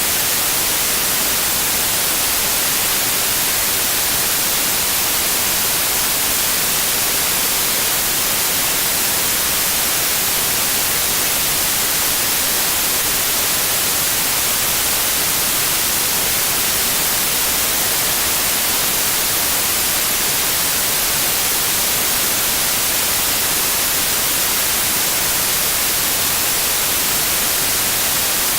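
Steady, unchanging white noise: an even hiss weighted toward the high end, with no breaks or changes.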